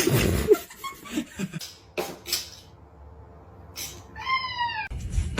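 A cat meows once near the end, a single call that falls slightly in pitch, after a few short knocks.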